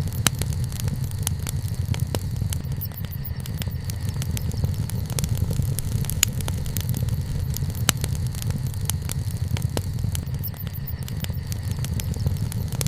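Wood bonfire crackling, with many sharp, irregular snaps over a steady low rumble.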